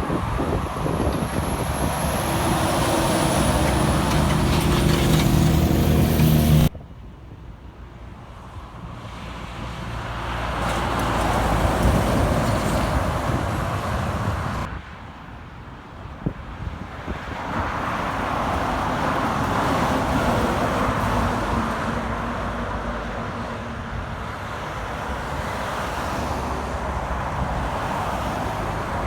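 Heavy trucks driving past on a highway, the engine and tyre noise swelling and fading with each pass. The sound cuts off abruptly about seven seconds in and again about fifteen seconds in, each time starting fresh on a new pass.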